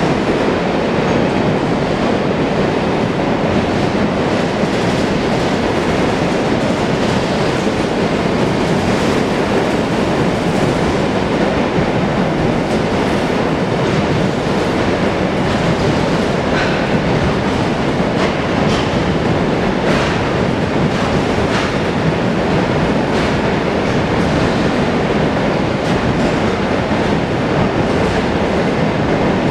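Empty grain hopper wagons of a freight train rolling past: a steady, loud rumble of steel wheels on rail, with repeated sharp clicks and clatter from the wheels and wagons through the middle of the pass.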